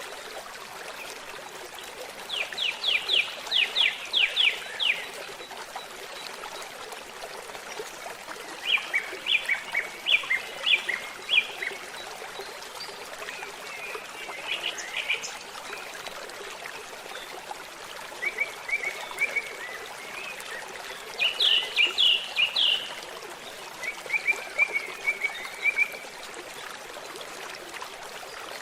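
Songbirds singing in short separate phrases of quick, high notes, one every few seconds, over the steady sound of a babbling stream.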